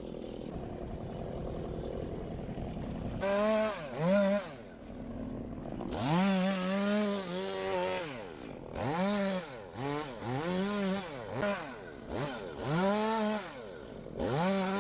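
Gasoline chainsaw running steadily at low speed, then revved up and down in short bursts, roughly one a second, from about three seconds in.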